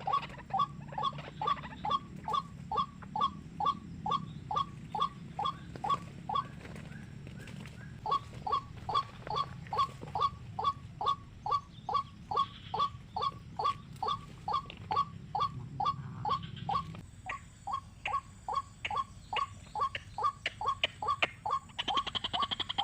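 A bird call repeated over and over, about three short notes a second, each note falling in pitch, with a break of about a second and a half partway through.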